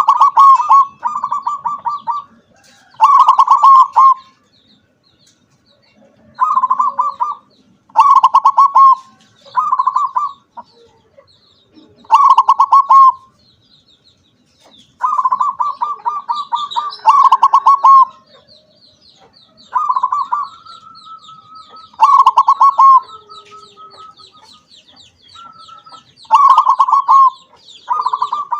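Perkutut (zebra dove) singing: about a dozen loud, quick-pulsed cooing phrases, each about a second long and separated by short pauses. From about halfway on, another small bird chirps faintly and rapidly in the background.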